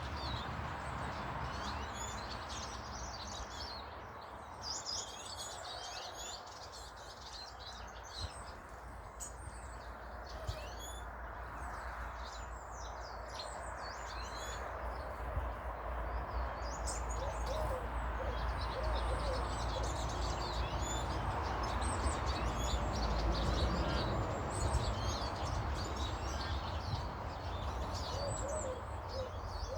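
Many small birds chirping and calling over one another in a steady chorus. A low rumble runs underneath and grows louder in the second half.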